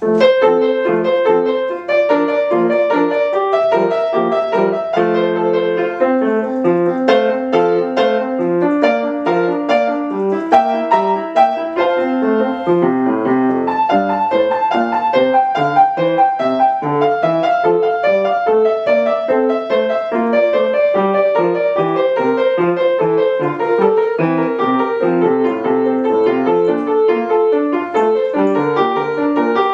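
Solo piano playing a classical piece that begins suddenly out of silence, in a quick, even stream of notes throughout.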